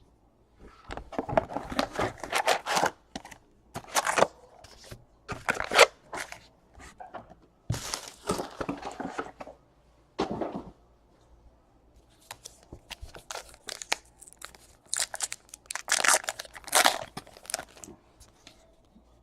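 Foil trading-card pack wrappers being torn open and crinkled, in repeated bursts of tearing and crackling with short pauses between.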